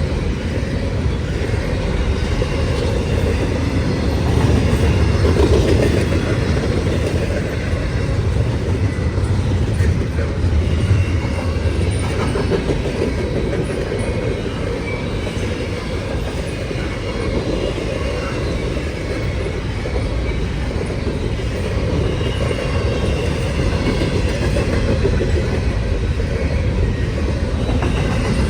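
A train's cars rolling past on the track: a steady, continuous rumble of wheels on rail.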